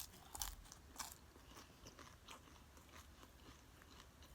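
Faint crunching and chewing of nachos (tortilla chips with toppings) being eaten up close. There are a couple of crisp crunches in the first second, then quieter scattered chewing.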